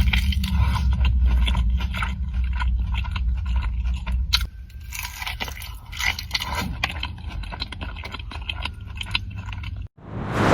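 Close-miked eating: chewing and crunching mouthfuls of sushi, with many small irregular clicks and smacks, over a low rumble for the first half. Near the end the sound cuts off and a brief swelling whoosh follows.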